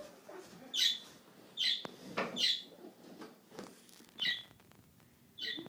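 Pet bird giving short, high chirps, about five of them, irregularly spaced about a second apart.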